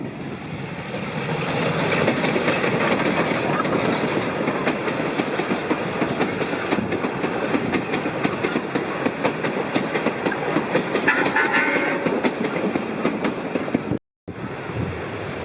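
The Cockle Train, hauled by South Australian Railways RX-class steam locomotive RX 207, running past with its wheels clattering over the rail joints. The sound builds over the first couple of seconds, and a brief tone sounds about eleven seconds in. The sound cuts off abruptly near the end and gives way to quieter wind noise.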